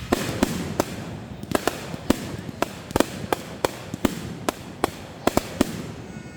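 Fireworks going off in an irregular string of sharp bangs and cracks, roughly two to three a second.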